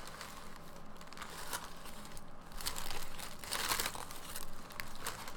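Paper sandwich wrapping crinkling and rustling as a sub is unwrapped by hand, in irregular bursts with a louder crackle about three seconds in.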